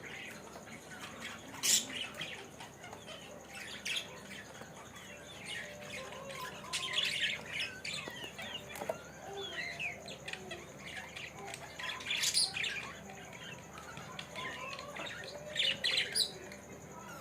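Budgerigars chattering steadily, a busy warble of short, quickly gliding calls, with sharp louder chirps standing out now and then, the loudest about two seconds in and near the end.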